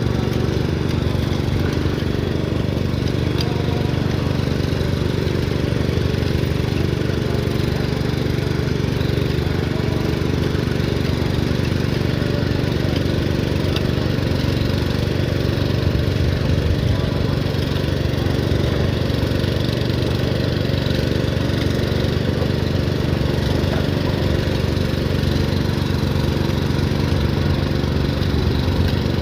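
Small tractor engine running steadily at an even speed throughout.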